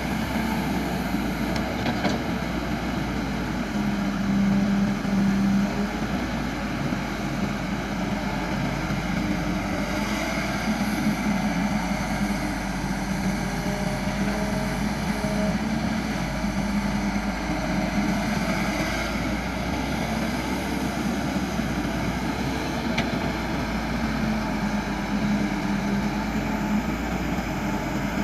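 Diesel engine of a CAT MS120-8 hydraulic excavator running steadily while it works, its hum swelling briefly about four seconds in and again near the end.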